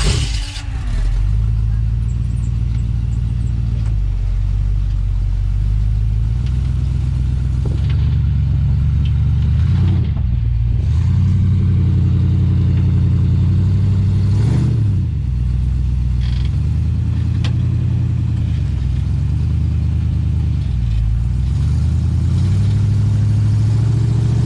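Off-road Jeep's engine running at low revs, rising and falling in pitch as the driver works the throttle crawling over rocks, with a few brief knocks along the way.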